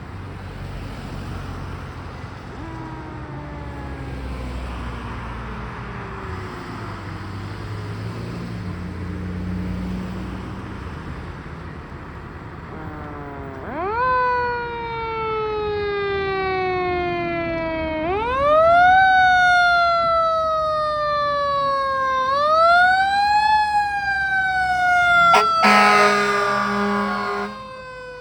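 Fire engine's Federal Q mechanical siren, faint and slowly winding down at first, then loud as it is wound up three times, each time rising sharply and coasting slowly down in pitch. Near the end an air horn blasts for about two seconds over the siren, with the truck's engine rumbling underneath.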